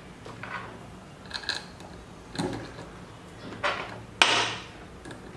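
Hand assembly of CNC machine parts: a string of separate clinks and knocks as metal parts and tools are handled and fitted, with one louder knock a little past four seconds in.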